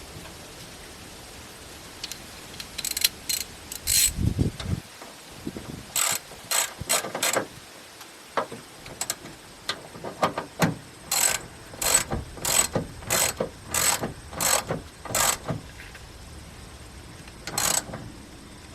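Hand socket ratchet clicking in short bursts, stroke after stroke, as a half-inch bolt is run in. A low thud about four seconds in.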